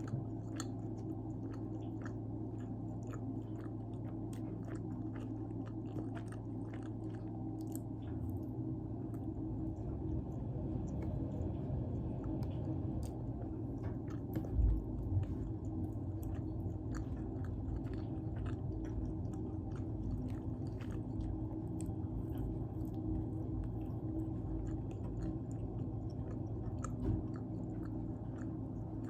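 Close-miked chewing and biting of pizza, with many small wet mouth clicks, over a steady low hum. A single low thump about halfway through.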